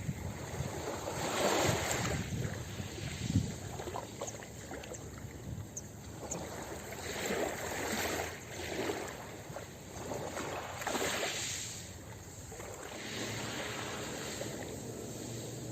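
Sea waves washing onto a beach: several swells of surf rise and fall away in turn.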